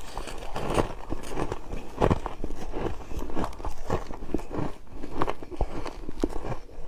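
Something crisp being smashed and crushed by hand, a dense, irregular run of crunchy cracks and crackles for ASMR.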